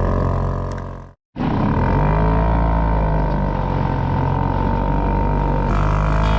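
Boat's motor running steadily under way, with a brief cut to silence about a second in.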